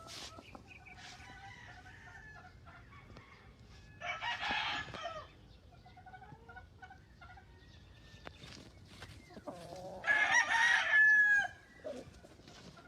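Roosters crowing: two crows, about six seconds apart, the second louder and ending on a long held note, with chickens clucking softly in between.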